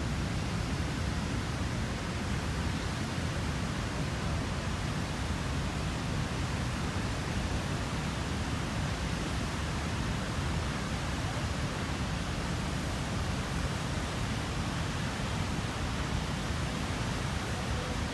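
Steady rushing of river water flowing over rocks, an even, unbroken noise strongest in the low range.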